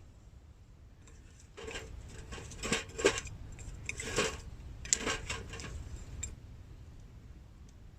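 Rustling and light clattering of things being handled, in several bunches of quick clicks between about a second and a half and six seconds in.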